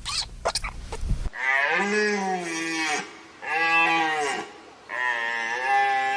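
Cattle mooing: three drawn-out moos, each a second or more long with short pauses between, after a few short sharp sounds in the first second.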